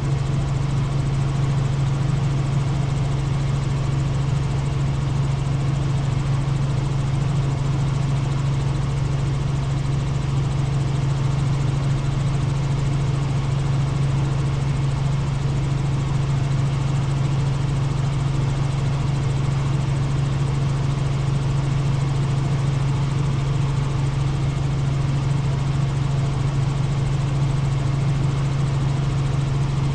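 Helicopter in flight: a steady engine and rotor drone with a strong low hum, unchanging throughout.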